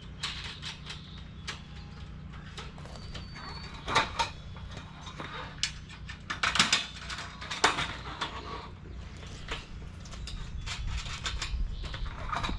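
Irregular clinks and knocks of galvanized sheet-metal panels and hardware being handled and fitted during assembly of a raised garden bed, the sharpest about 4 s in and a cluster a little past the middle, over a steady low hum.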